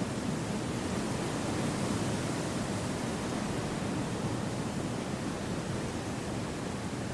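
Gentle wind through forest trees: a steady, even rush with no gusts.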